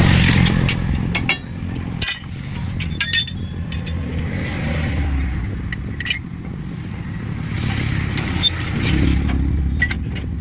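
A vehicle engine's steady low rumble, swelling at the start and again near the end, with scattered sharp metallic clinks and taps.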